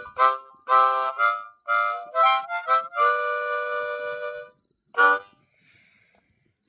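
Blues harmonica playing short chords and a few bent notes, then a long held chord, ending with one short blast about five seconds in.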